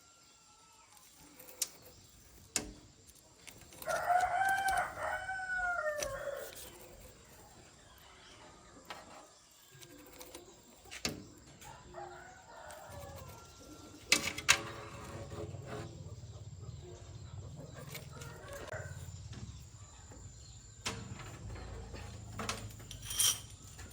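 A rooster crowing once, loudly, about four seconds in, with fainter calls later. A few sharp knocks are scattered through it, and a low steady hum sets in from the middle onward.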